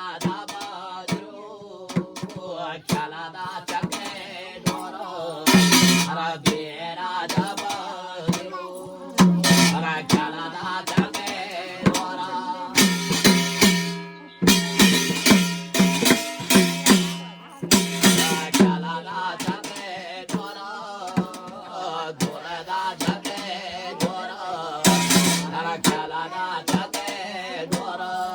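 Garhwali jagar folk music: a man singing with steady rhythmic drumming, with clusters of louder strikes every few seconds.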